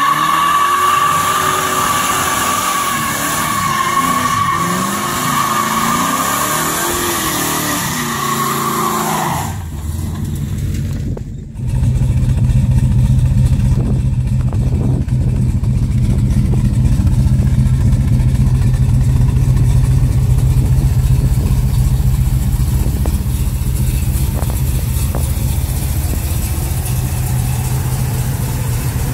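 1970 Plymouth GTX's 440 Six Pack V8 revving hard while the tyres squeal in a burnout, with the revs rising and falling. A couple of seconds later it settles into a steady idle with a low exhaust note.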